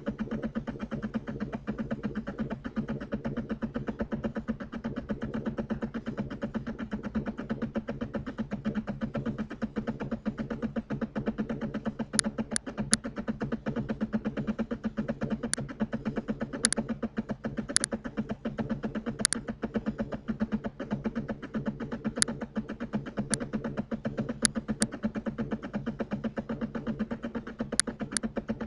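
Steady low electrical hum with a fine buzz, and from the middle on a dozen or so short sharp computer mouse clicks, some single and some in quick pairs.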